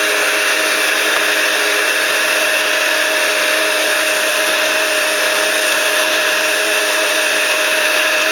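Vacuum cleaner running steadily: an even rushing motor noise with a few steady whining tones.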